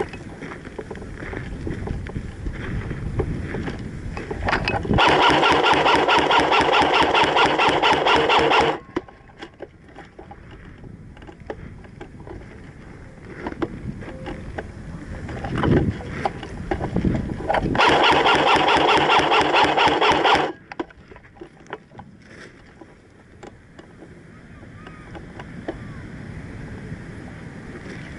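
Electric airsoft gun (AEG) firing two long full-auto bursts: a fast, even buzzing rattle of shots, the first nearly four seconds long and the second, near the two-thirds mark, about two and a half seconds long. Wind noise on the microphone fills the gaps between the bursts.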